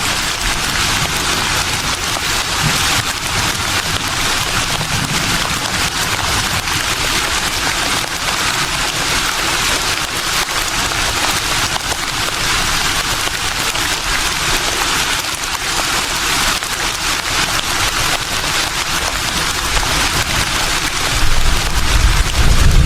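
Breeze rustling tree leaves: a steady, even hiss of moving foliage. Near the end a low rumble of wind rises underneath.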